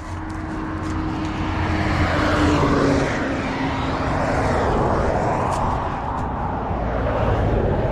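Engine noise that swells over the first few seconds and then holds steady, with a low hum under it.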